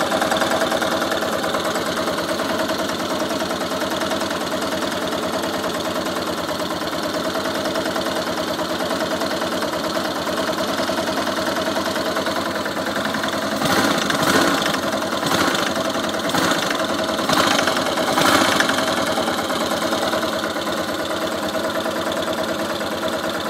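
Yamaha XT600 (43F) air-cooled single-cylinder four-stroke engine idling steadily. About halfway through come half a dozen short, louder bursts roughly a second apart.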